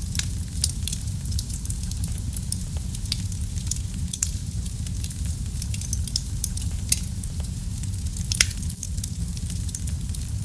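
Fire burning in a fireplace: a steady low rumble of flame under frequent small crackles, with two louder pops in the second half.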